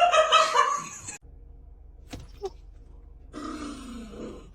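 A dog grumbling and growling in a drawn-out, talking-like vocal that cuts off about a second in. A shorter groaning vocal with a falling pitch follows near the end.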